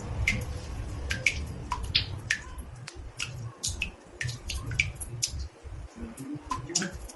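Water drops dripping into a bathtub: irregular short plinks, about two or three a second, over a low steady rumble.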